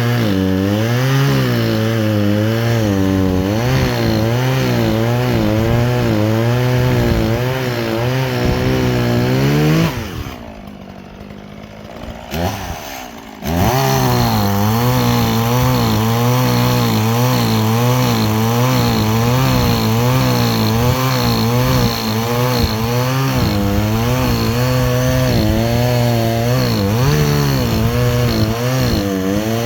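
Chainsaw running at full throttle, its pitch wavering as it cuts through wood. About ten seconds in it drops back to a low idle for a few seconds, then revs up and cuts again.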